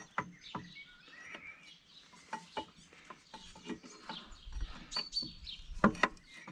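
Scattered metal clinks and knocks of parts and tools being handled, the loudest knock about six seconds in, with small birds chirping in the background.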